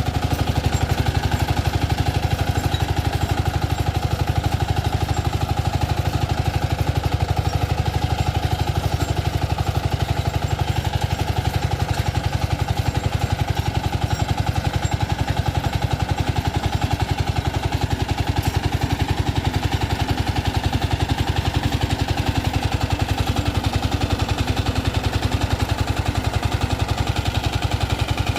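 Diesel engine of a Sanedo jugaad mini tractor running steadily with a fast, even beat.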